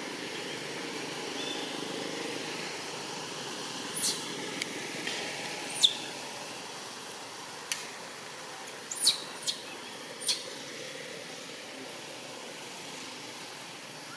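A series of about six short, high-pitched bird chirps, sharp and sweeping, spread between about four and ten seconds in, over a steady outdoor background hum.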